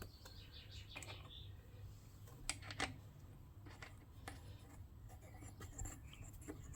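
A few faint, scattered clicks and light taps of parts being handled: the air cleaner cover going onto a small Honda GX110 engine, with two sharper clicks about two and a half seconds in.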